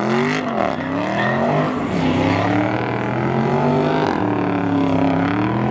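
Car engine revved hard: quick rises and falls in pitch at first, then held at high revs with a slowly wavering pitch, as in a burnout.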